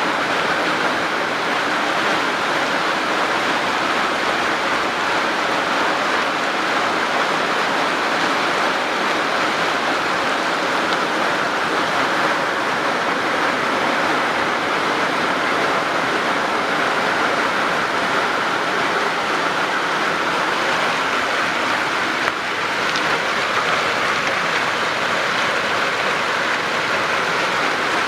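Steady, unbroken rush of flowing water, with a slight momentary dip about two-thirds of the way through.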